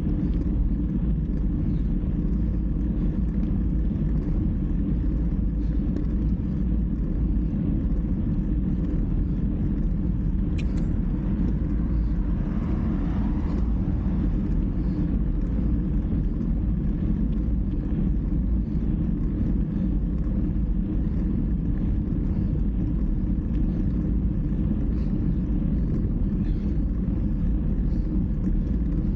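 Steady low rumble of wind buffeting the microphone and road noise on a moving bike, with a brief click about ten seconds in.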